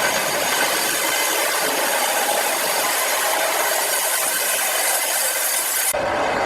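Power saw cutting steadily through a large log: a loud, even rasping noise, heavy in the high end. It changes abruptly about six seconds in.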